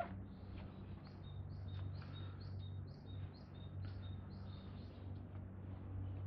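A small bird calling a quick series of short, high chirps, about three a second, for several seconds over a low, steady background hum.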